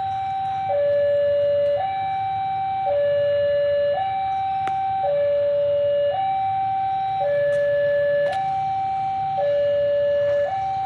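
Railway level crossing warning alarm sounding a steady two-tone signal, switching between a higher and a lower tone about once a second. It is warning of an approaching train. A low rumble lies underneath.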